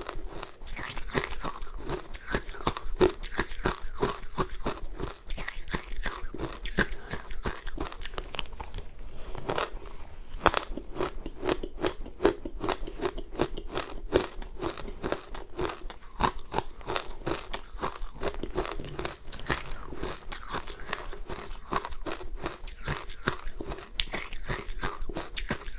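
Close-up crunching and chewing of powdery ice dusted with matcha: rapid, dense crunches from bite after bite.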